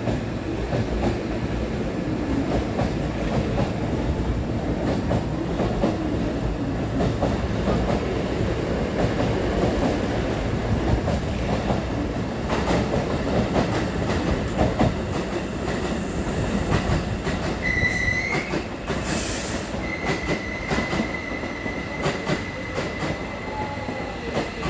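Hankyu 1000 series electric train running past as it pulls out, with a steady rumble of wheels on rail and repeated clatter over rail joints and points. About 18 seconds in, a high wheel squeal starts and then holds as a steady tone near the end.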